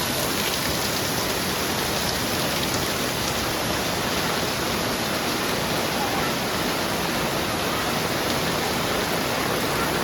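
Heavy rain falling steadily, an even hiss of many drops with no breaks or single distinct sounds.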